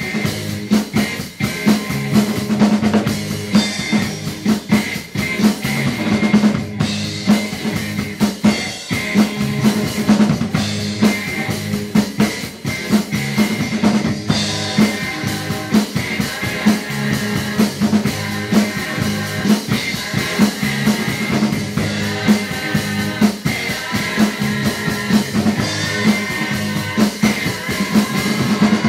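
Drum kit played along to a hard rock recording: kick drum, snare and cymbals over distorted guitar and bass.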